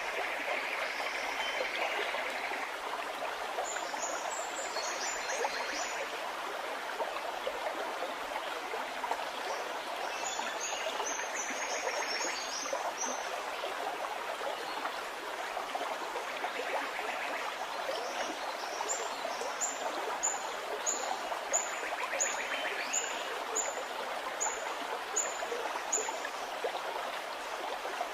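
Stream gurgling steadily, with a bird calling high, short chirps in three bouts: a brief flurry about four seconds in, another around ten seconds, and a longer run of evenly spaced chirps, about two a second, in the last third.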